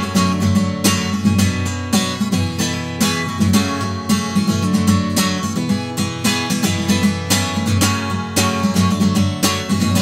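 Instrumental break in a song: strummed acoustic guitar chords in a steady rhythm, with no singing.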